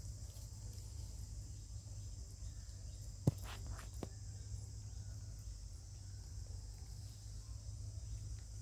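Steady, high-pitched insect chorus in forest, with a low rumble beneath. Two sharp clicks come a little over three seconds in, well under a second apart, the first the loudest.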